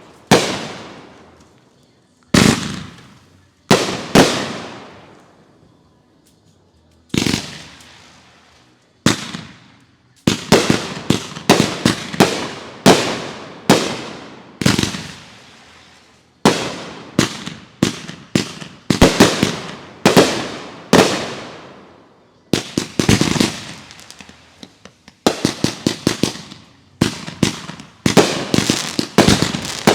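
Consumer fireworks going off in a display, sharp bangs each trailing off over a second or two. A few separate bangs at first, then a quick run of them from about ten seconds in, with rapid clusters near the end.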